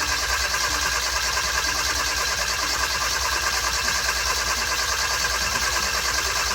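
2014 Hyundai Veloster Turbo's 1.6-litre turbocharged four-cylinder, just started and running steadily with an even low pulsing. It is being run to check whether a misfire remains after its fuel injectors were cleaned.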